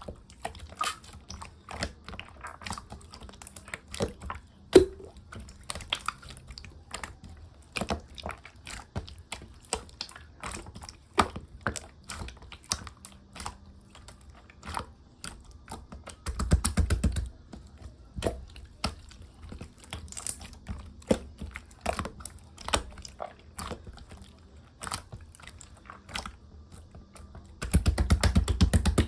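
Clear green slime being pressed and poked by hand, giving an irregular run of small sticky clicks and pops. Twice, about halfway and again near the end, a second or so of faster, denser squishing.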